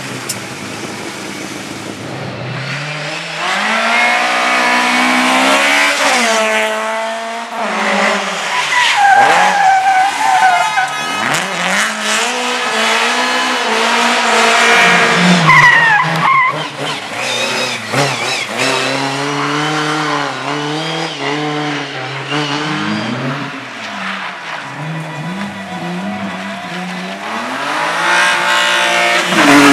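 Race car engines revving up and falling back again and again as they accelerate and lift, with more than one car audible at once. Tires squeal and skid in short bursts, notably about nine and fifteen seconds in.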